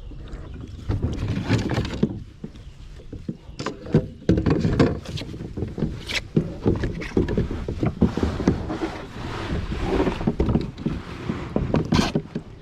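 A Wilderness Systems Tarpon 105 sit-on-top kayak being paddled: irregular paddle strokes splash and churn the water beside the hull, with a few sharp knocks.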